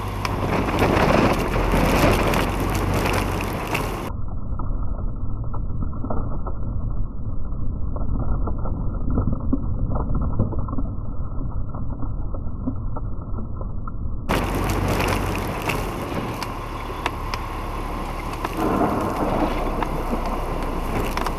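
Steady running noise of a Western Star 6x6 plow truck, heard from inside the cab while it drives. The sound goes muffled for about ten seconds in the middle.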